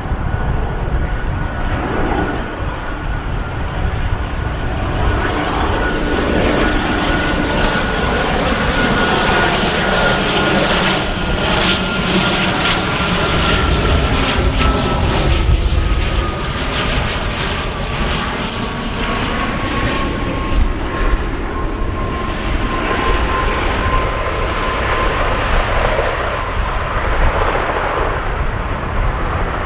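Loganair ATR-42 twin turboprop landing, its engines and propellers droning steadily with a high tone that slides slowly down in pitch as it passes. Strong wind rumble on the microphone underneath.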